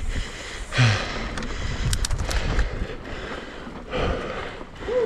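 Mountain bike riding on a dirt trail: tyre noise on the ground with scattered rattles, and a brief pitched sound about a second in and again near the end.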